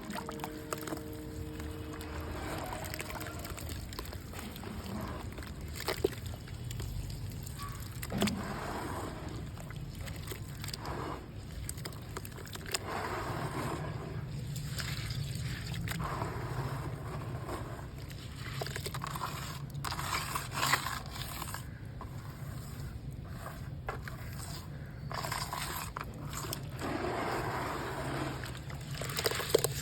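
Wet, gritty red mud being crumbled and squeezed by hand: irregular crunching and wet squelching, in uneven bursts, over a steady low hum.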